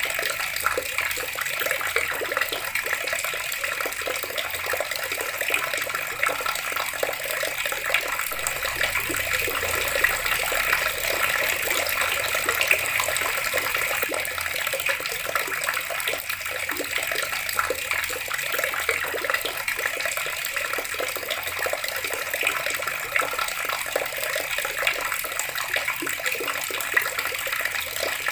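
Water running steadily from a tap, splashing in a continuous even stream.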